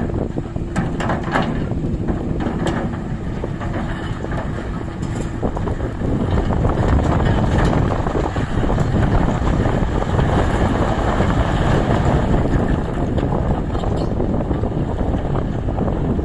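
Tata Hitachi excavator's diesel engine running steadily, with a few knocks in the first few seconds. It gets louder about six seconds in.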